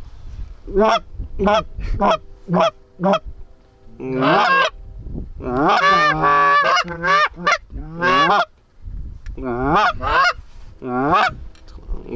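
Goose honks and clucks, loud and close, in quick runs of short calls: a string of about five evenly spaced honks, then denser bursts of overlapping calls.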